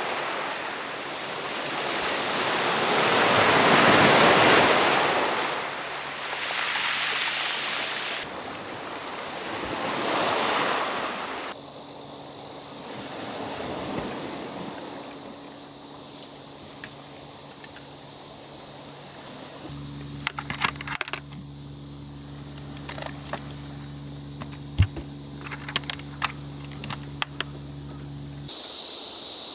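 Sea waves washing onto the shore, swelling and fading twice. After a cut the wash gives way to a steady low hum and a high steady ringing, with scattered clicks near the end.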